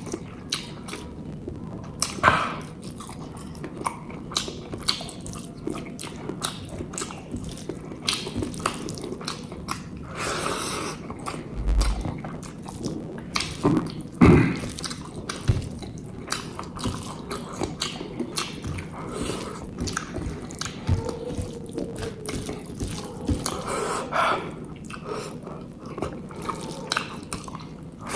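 Close-up eating sounds: a person chewing and biting food of egg curry, rice and papad, with many small wet mouth clicks and smacks and a few louder bites about 2 seconds and 14 seconds in.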